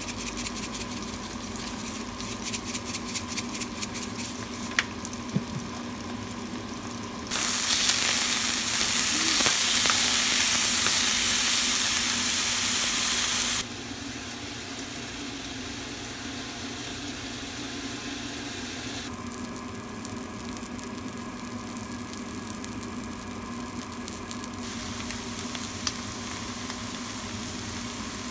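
Food sizzling and crackling in a frying pan: a beef steak searing, later shrimp coated in egg. About seven seconds in, a much louder steady hiss starts and lasts about six seconds before it drops back.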